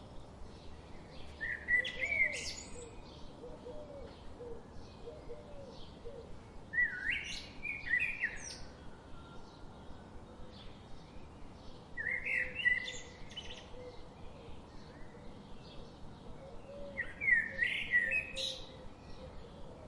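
Birdsong: a short, high, quickly warbled phrase of about a second, sung four times at intervals of roughly five seconds, over faint, rapidly repeated chirping.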